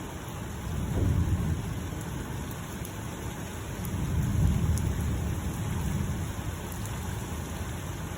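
Thunder rumbling over steady rain: a low roll about a second in, then a longer, louder rumble building from about four seconds and slowly fading.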